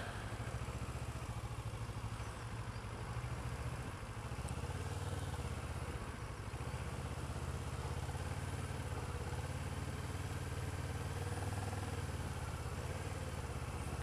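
Kawasaki ER-6f motorcycle's parallel-twin engine running steadily at low revs, a low even engine note with road hiss above it.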